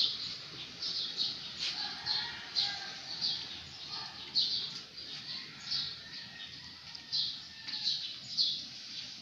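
A small bird chirping repeatedly: short, high chirps about once or twice a second, with fainter lower calls in the background.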